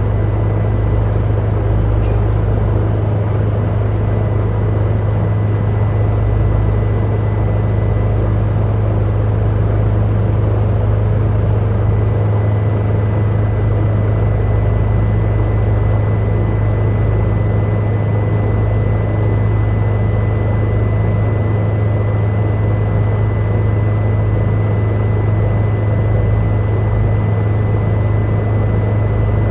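Helicopter cabin interior in flight: a steady, loud drone with a strong low hum and a thin, high tone running through it.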